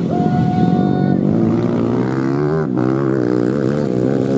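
Several motocross bike engines running hard, their pitch wavering up and down with the throttle. A steady higher tone holds for about the first second.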